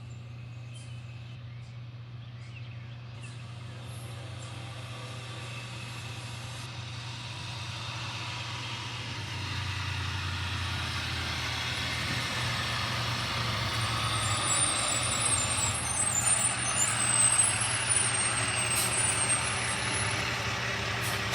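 International truck's diesel engine running, getting gradually louder over the whole stretch.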